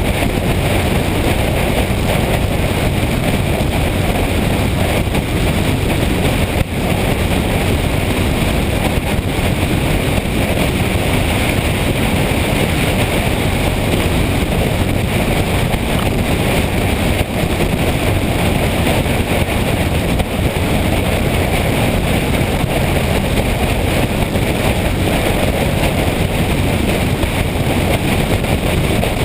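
Motorcycle running steadily on the road, its engine under a continuous rush of wind on the microphone.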